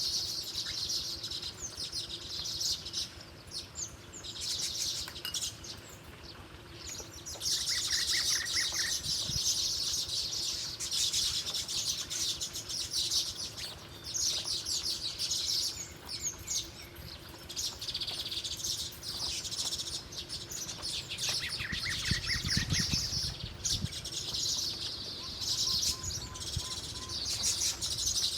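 Small songbirds chirping in fast, high-pitched trills that come in repeated bouts, with brief pauses between them.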